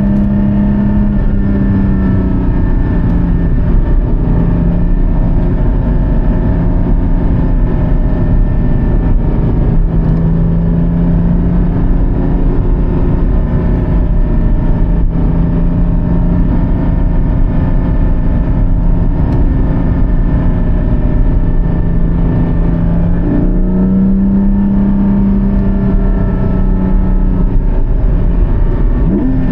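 Porsche 718 Cayman GT4's flat-six engine running hard on track, heard from inside the car along with constant road and wind rumble. The engine note holds a fairly steady pitch with small dips and rises as the throttle changes. It climbs noticeably near the end and jumps sharply in pitch at a gear change.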